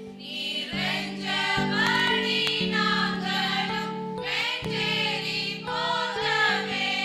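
Church hymn music: held chords changing every second or so under a wavering melody line.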